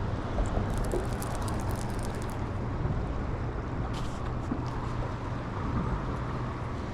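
Steady low rumble of wind and moving water around an open boat on a fast river current, with a run of faint light clicks about a second in and another near four seconds.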